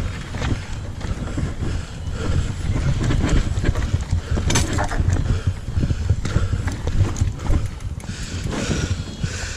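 Downhill mountain bike riding over a rough trail. Wind buffets the microphone with a heavy rumble, and the bike rattles with frequent sharp knocks from the tyres striking rocks and roots. One harder knock comes about halfway through.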